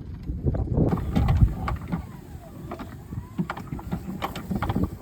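Sounds aboard a wooden sailboat: water and hull noise with irregular knocks and clicks. The loudest stretch comes about a second in.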